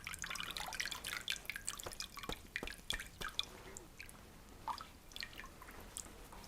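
Water from hot herbal compresses dripping and trickling into a basin: irregular small drops and splashes, thicker in the first few seconds and thinning out later.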